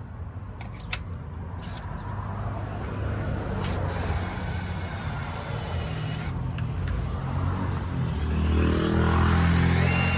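Power drill running steadily while boring through the metal bumper or its mount. A few sharp clicks come near the start, and the motor hum grows louder near the end.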